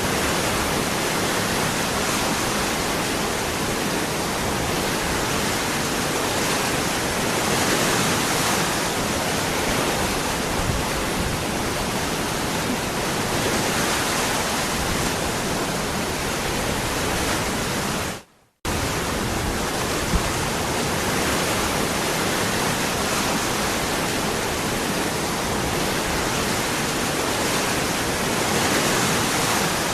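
Waterfall water rushing steadily. About eighteen seconds in it fades out to silence for half a second and comes back abruptly.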